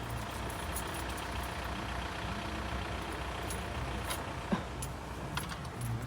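Steady low rumble of a car's engine and road noise heard from inside the cabin, with a few light clicks.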